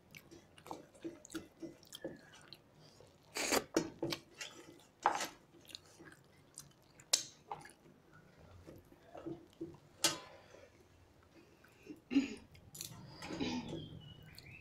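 Chewing and lip smacking of people eating rice and fish curry by hand, with irregular soft clicks and a few sharper taps of fingers working rice on steel plates.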